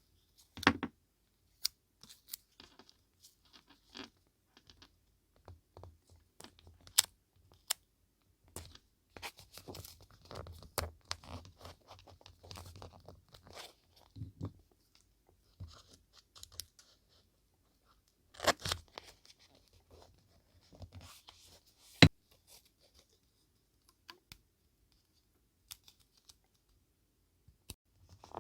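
Paper being handled, rustled and torn in short stretches, with many small scattered clicks and taps. One sharp tap stands out about three-quarters of the way through.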